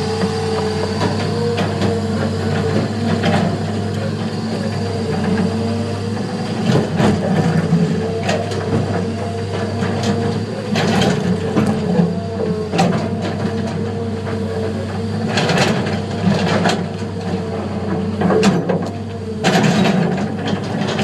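Heavy diesel earthmoving equipment running at a steady speed, with irregular knocks, clanks and scrapes from an excavator bucket working sandstone.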